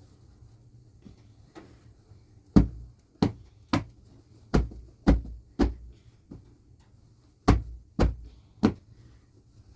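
Heavy knocks or blows struck in three groups of three, each stroke about half a second after the last, with a pause between groups.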